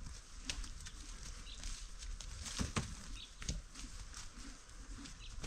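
Outdoor ambience with scattered light clicks and knocks and a few short, high chirps, typical of birds.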